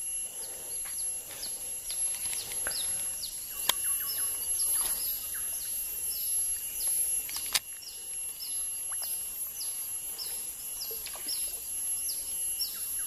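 Bird calling: a run of short, high, falling chirps, about two a second, over a steady high whine. Two sharp clicks stand out, about four and seven and a half seconds in.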